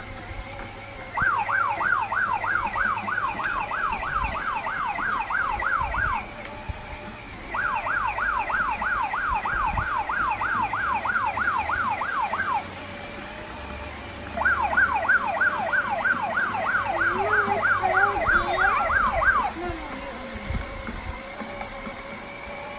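Electronic siren sound effect from a kids' battery-powered toy motorcycle: a fast rising yelp repeated about four times a second, played in three bursts of about five seconds each.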